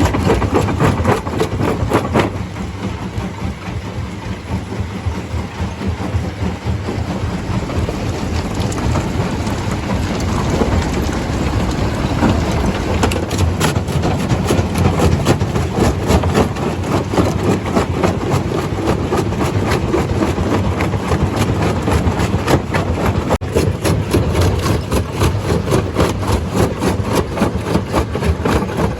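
Stone crusher running under load: a steady heavy engine drone with dense, rapid knocking and rattling of rock.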